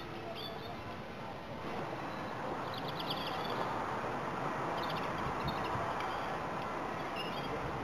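Small birds chirping in short calls every second or two, one a quick trill about three seconds in, over a steady rushing background noise that grows louder about two seconds in.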